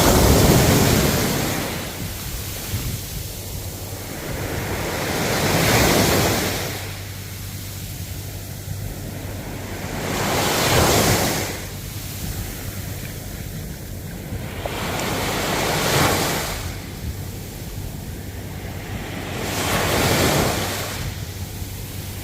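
Ocean waves breaking on the shore, five surges about every five seconds, each swelling and then washing away.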